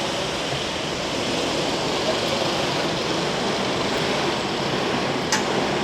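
Steady rushing background noise of city traffic, with one sharp click about five seconds in.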